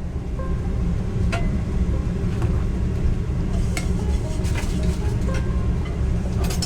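Storm wind rumbling against the food truck and the microphone in a steady low roar, with scattered light clicks and clinks on top.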